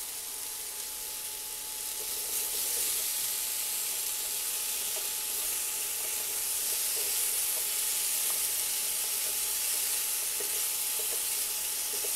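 Diced raw potatoes sizzling in hot oil in a frying pan, stirred with a wooden spoon so the pieces knock and tumble against the pan. The sizzle grows louder about two seconds in.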